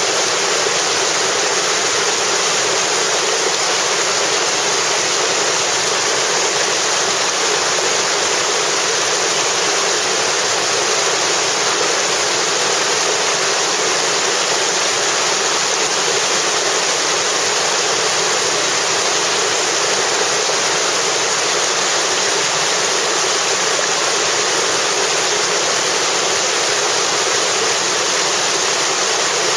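Whitewater river rapids rushing in a loud, steady, unbroken roar.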